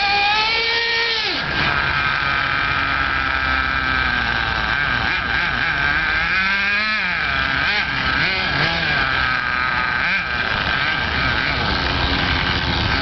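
Small engine of a 1:7 scale RC Audi V8 model car with a modified exhaust, running with a high, buzzing tone. The revs rise and fall about a second in and again around seven seconds.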